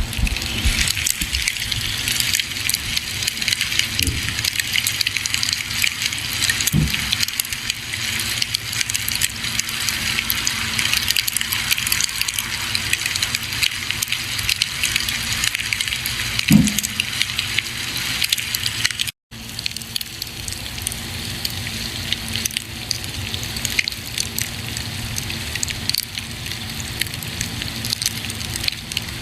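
Campfire burning with dense, steady crackling and hissing, with a few louder pops. The sound cuts out for an instant about two-thirds of the way through.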